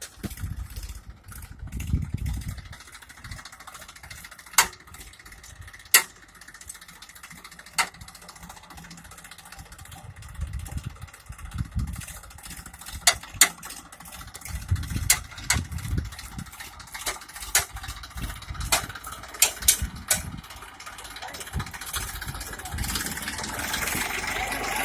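Tractor engine running, with uneven low rumbles and a dozen or so sharp clicks scattered through it.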